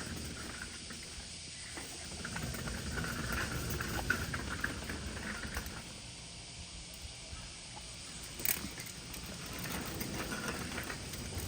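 Outdoor seaside ambience: a low, even rumble of wind and sea with faint scattered chirps and ticks, and one sharp click about eight and a half seconds in.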